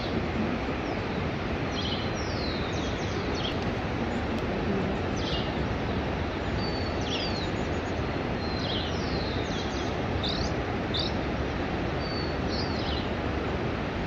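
Small birds calling in short, quick downward-sweeping chirps, roughly one every second or so, over a steady rushing background noise.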